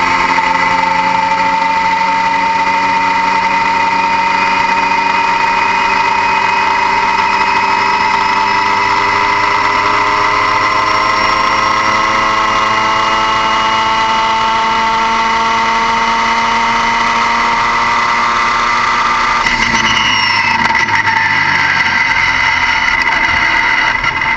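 Vehicle engine running steadily with a prominent whine, its pitch climbing slowly. About twenty seconds in, the pitch drops away and the engine settles to a different, lower note.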